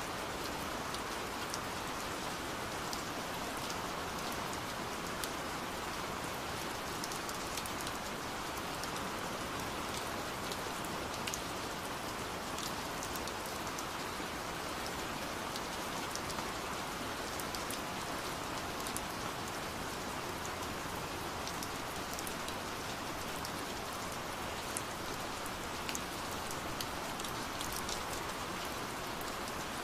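Steady, calm rain falling, with the sharp ticks of single drops scattered throughout.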